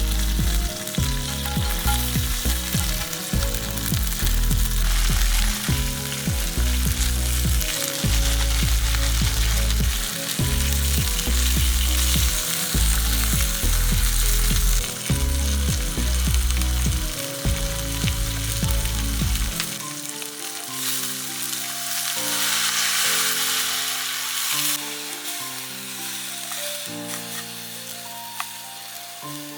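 Yakisoba noodles sizzling as they fry in a stainless steel pot over a wood fire, under background music whose bass line drops out about two-thirds of the way through.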